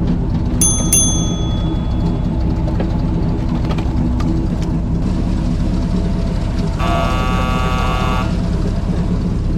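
Airboat's engine and propeller running steadily. Two sharp clicks with a brief ringing note come about a second in, and a steady high-pitched tone sounds for about a second and a half near the end.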